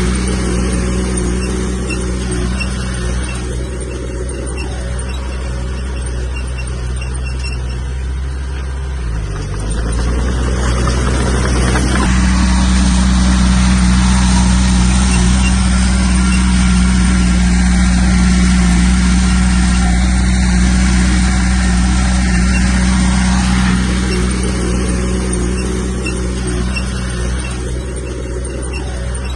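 Komatsu bulldozer's diesel engine running steadily while working. Its pitch dips briefly about a third of the way in, then it runs louder for a stretch of about ten seconds before easing off.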